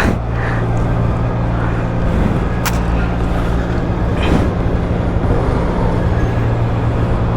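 Motorcycle engine running at a steady pitch under way, with road noise. There are a couple of sharp clicks, one at the start and one near three seconds in.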